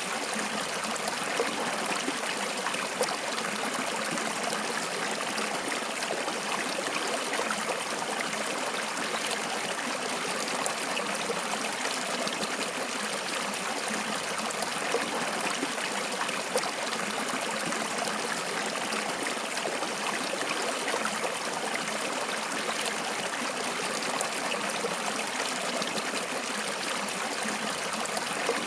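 Flowing water running and trickling steadily, an unbroken rushing hiss with small brief louder moments scattered through it.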